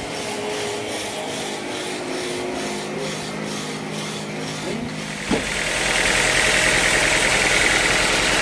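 Sawmill machinery running: a motor's steady hum with a rhythmic rasping of about two strokes a second. About five seconds in there is a sharp knock, and then the sound grows louder with a steady high-pitched hiss.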